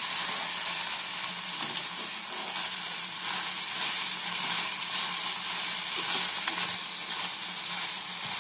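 Mutton pieces with onion, capsicum and green chillies frying in oil in a stainless steel pan, stirred with a wooden spatula: a steady sizzle.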